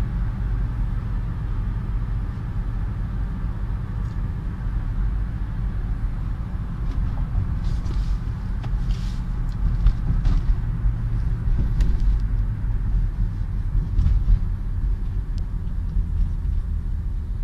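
Inside-the-cabin drone of a Honda CR-V's 2.0-litre petrol engine running on LPG, with tyre and road noise: a steady low rumble at about 2000 rpm. Near the end the car slows and the revs ease toward 1000 rpm. A few faint light ticks are heard in the middle.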